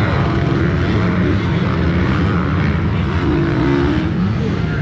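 Motocross bike engines running and revving, their pitch rising and falling, with several engines overlapping.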